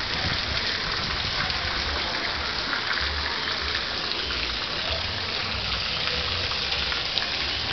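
Heavy tropical downpour: a steady hiss of rain pouring onto a wet paved street.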